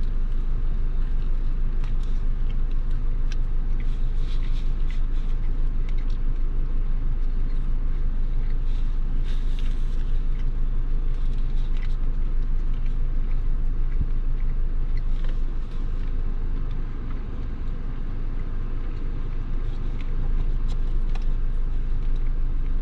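Car engine idling with a steady low hum, with light clicks and rustles over it; the hum eases slightly for a few seconds from about fifteen seconds in.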